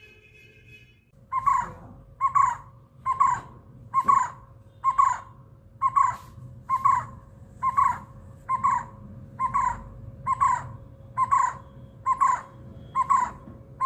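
A bird calling: one short call repeated at a steady pace, a little under once a second, starting about a second in. A faint steady tone runs underneath.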